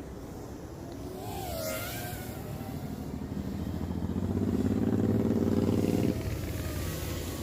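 Mini quadcopter's motors buzzing, gliding up and down in pitch about a second in, then a steadier, louder buzz from about three seconds that cuts off suddenly near six seconds, over a steady low rumble.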